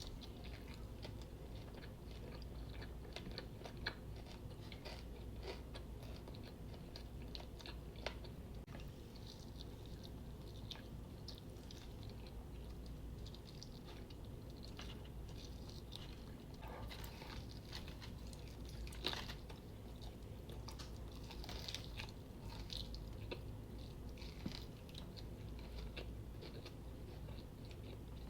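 Close-up chewing and biting of crispy fried chicken wings: a steady run of small crackles and wet mouth sounds, with a few sharper crunchy bites about 4, 8 and 19 seconds in.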